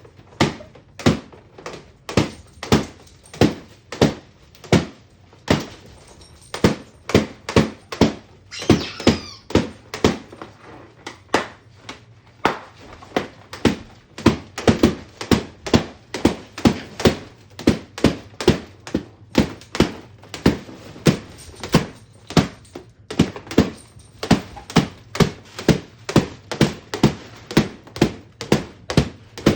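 Balloons popping one after another in quick succession, about two sharp pops a second.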